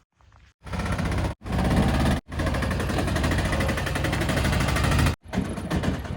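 Heavy diesel engine running hard with a rapid pulsing beat, in a few short clips cut together, with abrupt starts and stops between them.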